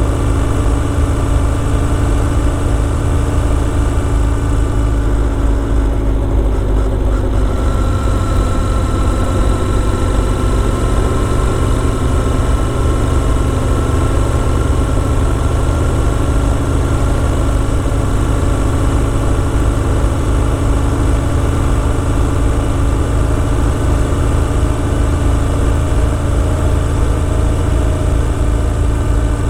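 Motorcycle engine running steadily, an even engine hum with a deep rumble underneath; the engine note shifts slightly about seven seconds in, then holds steady again.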